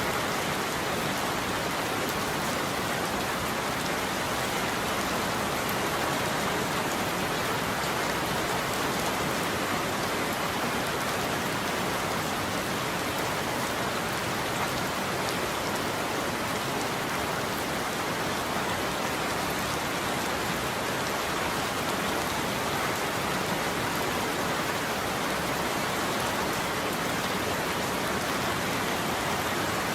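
Heavy rain falling steadily on a surface: an even, unbroken hiss of drops with no change in level.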